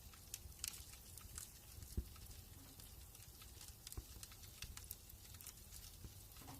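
Wood fire burning in a fireplace, crackling faintly with scattered irregular snaps and pops over a low rumble; two sharper pops come about two and four seconds in.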